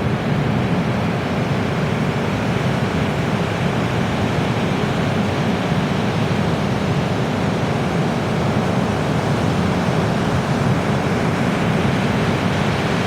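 Ocean surf washing steadily onto the beach, an unbroken rushing noise with a heavy low rumble.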